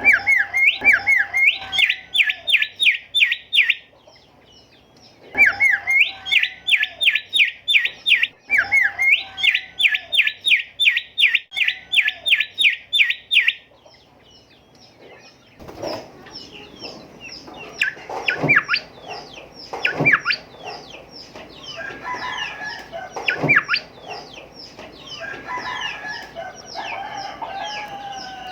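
Golden whistler song: long runs of rapid, evenly repeated sharp whistled notes, twice, then a looser, more varied stretch of calls and down-sweeping notes in the second half.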